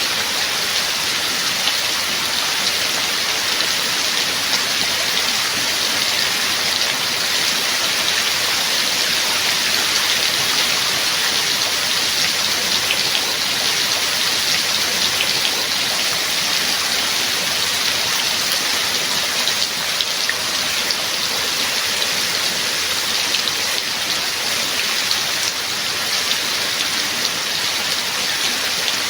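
Steady rain falling, an even hiss with scattered sharp drop hits, unchanging throughout.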